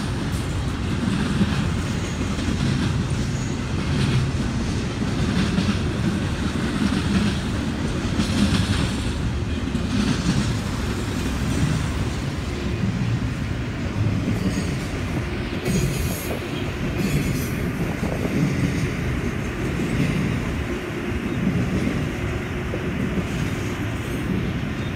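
Double-stack intermodal container train rolling past: a steady low rumble of the well cars, with the wheels clacking every second or two.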